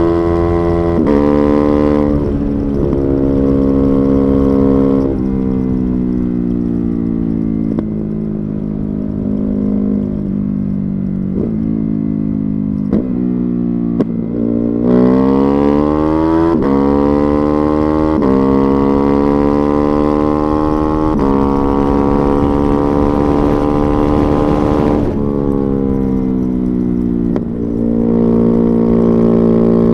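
Ducati Hypermotard 950's Testastretta 11° L-twin with a Termignoni exhaust running under way. The engine note falls as the bike slows, with a few sharp cracks, then rises again about halfway through as it accelerates and shifts up through the gears, easing off again near the end.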